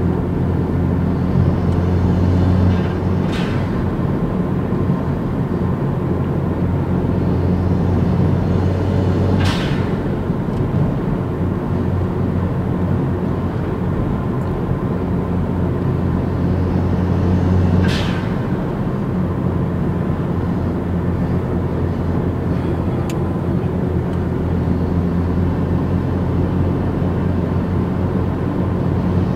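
Mazdaspeed 3's turbocharged 2.3-litre four-cylinder running through an HKS cat-back exhaust, pulling under acceleration and easing off three times. Each throttle lift brings a short, sharp hiss from the Turbo XS RFL blow-off valve venting boost, with a fainter fourth vent later on.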